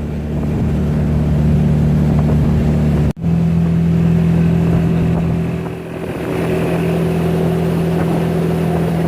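Motorboat engine running steadily at a constant speed. The sound drops out for an instant about three seconds in, then the engine carries on.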